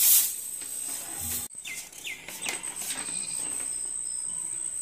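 Outdoor ambience: a steady high-pitched thin tone, with three short falling bird chirps about two seconds in. A brief rustle at the very start.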